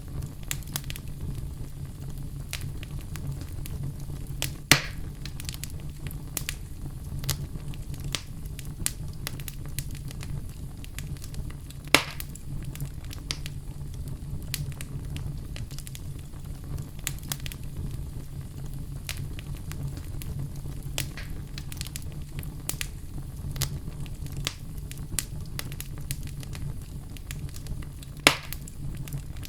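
Oak logs burning in a fireplace: a steady low rumble of flame with constant small crackles and three louder pops, about five, twelve and twenty-eight seconds in.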